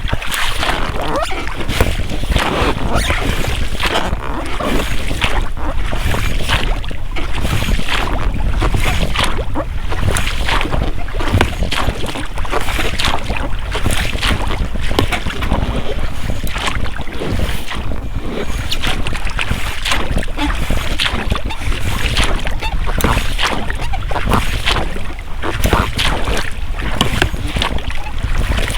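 Oars of an inflatable boat splashing in the water, with the rubber rowlocks sounding at each stroke. Wind rumbles on the microphone throughout.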